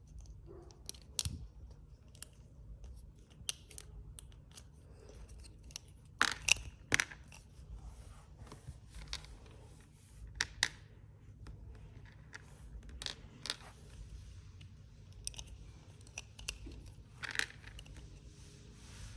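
Action figure packaging being handled and opened, with scattered sharp snips and clicks of plastic and card. The loudest cluster comes about six to seven seconds in.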